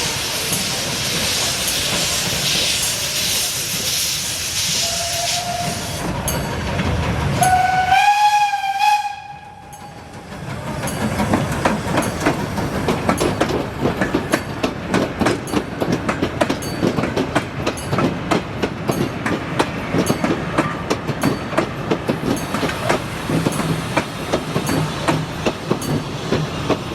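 Heritage steam train: steam hissing, then a short whistle blast about eight seconds in. After a brief lull the wheels click rapidly and steadily over the rail joints as the train rolls along.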